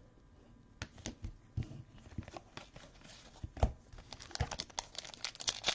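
Trading cards and foil pack wrappers being handled: scattered light clicks and short crinkling rustles, sparse at first and busier toward the end.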